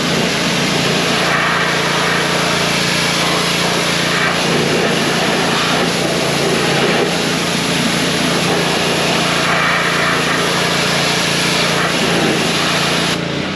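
A small engine runs steadily, with a constant hiss over it.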